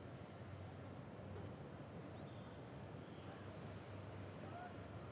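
Faint ambient birdsong: several short, high chirps scattered through, over a low steady hum.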